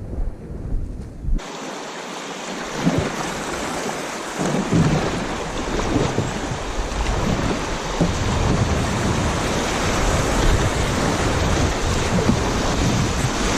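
Steady rush of river water through a shoal, with wind buffeting the microphone, starting abruptly about a second and a half in.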